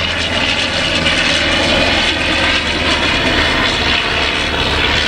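Propeller aircraft engine running steadily as a vintage aeroplane flies its display pass.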